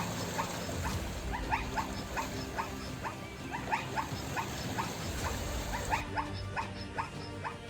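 A herd of plains zebras barking: a rapid string of short, rising yelping calls, about two to three a second, overlapping from several animals.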